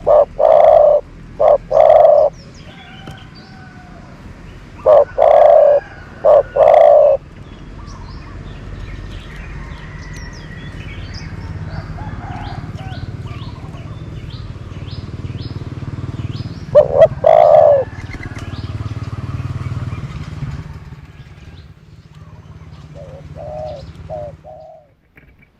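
Spotted dove used as a decoy bird cooing loudly in short grouped phrases: several coos at the start, another phrase a few seconds later, a third in the second half and fainter coos near the end. Small birds chirp in the background, and a low rumble rises and fades across the middle.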